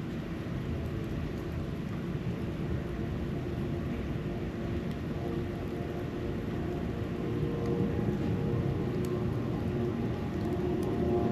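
A low, steady rumble of distant motor noise, with a humming engine tone that grows louder over the last few seconds.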